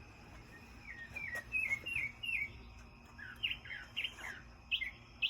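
A bird singing: runs of short, quick chirps, each falling in pitch, in three bursts, over a faint steady high insect drone.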